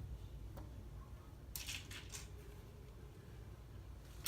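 Small plastic LEGO pieces clicking and rattling as they are handled, in a few short clusters.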